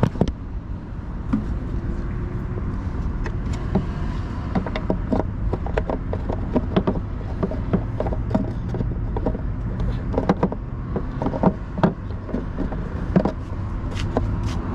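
A truck's engine idling with a steady low rumble, under a run of short clicks and knocks from hands working on the vehicle.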